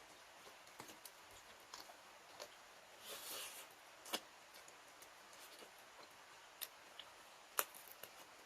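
Close-miked eating sounds: scattered soft mouth clicks and smacks, a short crunchy rustle about three seconds in, and two sharper clicks, one near the middle and one near the end.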